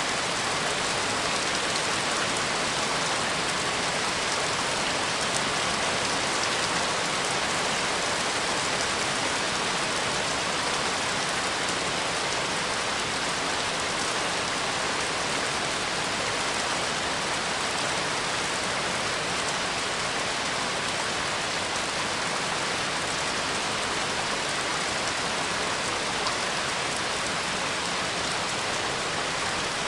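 Steady, dense rainfall, with fine scattered drop ticks in the hiss.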